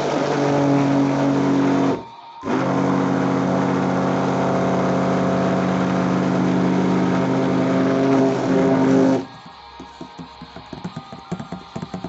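Electric mixer motor running steadily as it blends a thick cream. It cuts out briefly about two seconds in, then runs again until it stops about nine seconds in. Quiet background music with plucked guitar-like notes follows.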